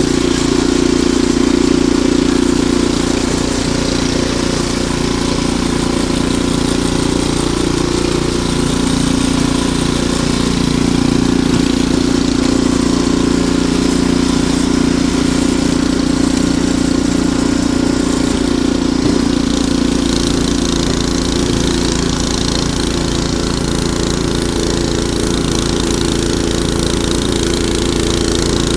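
Ariens Deluxe 28 snowblower engine running steadily, its pitch shifting slightly twice.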